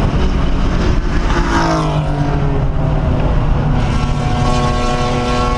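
1997 Ford Mustang SVT Cobra's 4.6-litre DOHC V8 running hard on a race track. The revs fall about a second and a half in, then hold at a steady pitch near the end.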